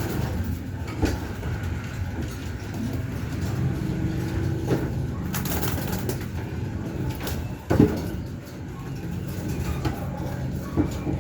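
Domestic pigeons cooing in low, steady tones, with a few sharp knocks in between, the loudest about eight seconds in.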